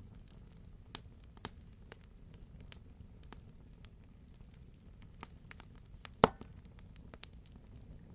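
Campfire wood crackling: scattered sharp pops and snaps over a low steady rumble, with one loud pop about six seconds in.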